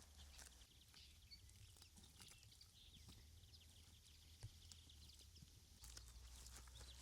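Near silence: faint, irregular clicks and crackles scattered over a low steady hum.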